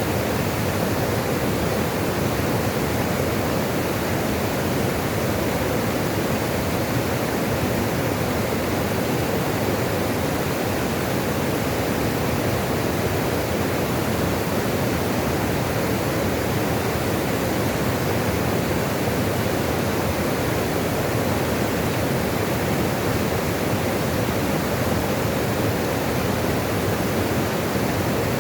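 Running water rushing steadily, an even, unbroken sound with no changes.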